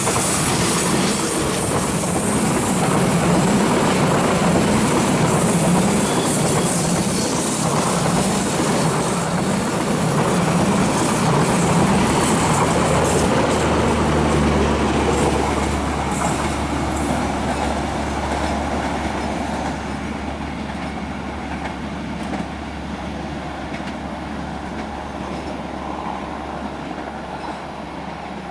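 A long passenger train rolling past close by, its wheels clattering over the rail joints. About halfway through the clatter begins to fade as the train moves off, leaving a low steady hum.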